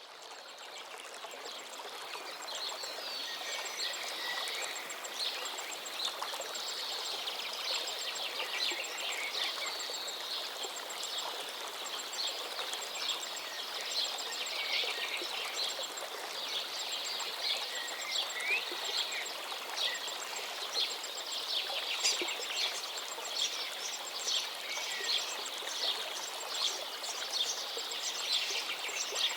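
Many songbirds singing over the steady rush of a flowing forest river. The sound fades in over the first couple of seconds.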